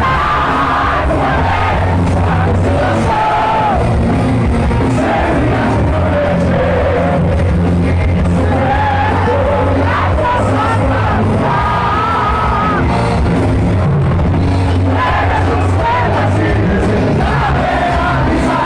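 Live heavy metal band playing loud and steady, with a singer's voice carried over the band and a crowd audible underneath.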